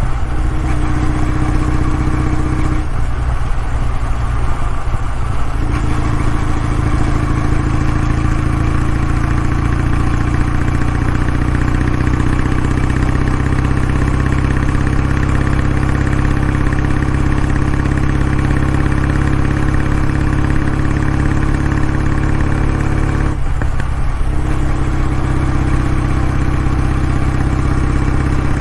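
Kawasaki W650's air-cooled parallel-twin engine and exhaust running at a steady engine speed, with the low exhaust note briefly dropping away about three seconds in and again near the end.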